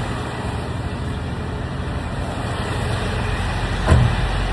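Steady rain and vehicle noise with a low hum, and a single dull thump about four seconds in.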